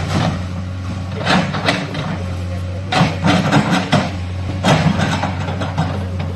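Excavator's diesel engine running steadily, with bursts of knocks and clatter about a second in, around three to four seconds, and near five seconds.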